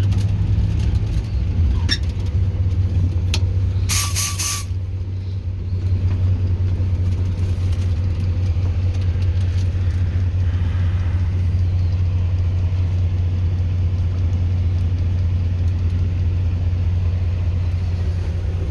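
TU6A narrow-gauge diesel locomotive's YaMZ-236 V6 diesel engine running steadily while under way, heard from the cab as a constant low hum. About four seconds in comes a short, loud hiss with a tone in it.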